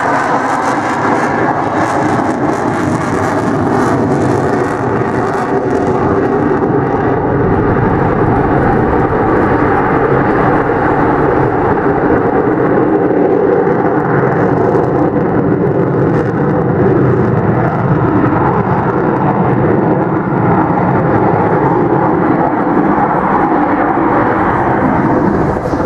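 Avro Vulcan XH558's four Rolls-Royce Bristol Olympus 202 turbojets running at power in flight: loud, steady jet noise with several tones mixed in, growing a little louder about six seconds in.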